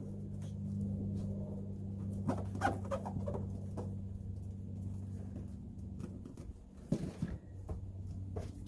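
Scattered light taps, scrapes and rustles of hand work in a vehicle cab, over a steady low hum.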